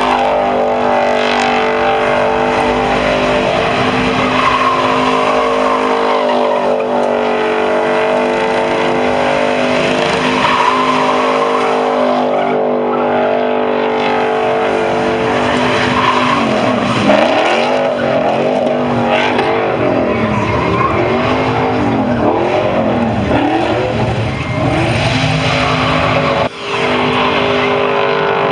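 Truck engine held at high revs while its tires squeal and skid. Later on, the pitch swings up and down over and over, about every two seconds.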